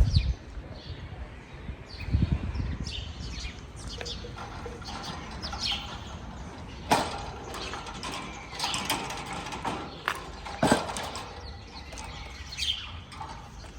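Small caged parrots giving short, sharp chirps several times, with a few sharp knocks or rattles against the cage in between.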